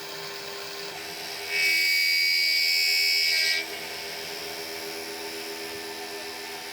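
Milling machine running with a steady hum. About one and a half seconds in, a loud high-pitched whine starts and lasts about two seconds, then stops suddenly.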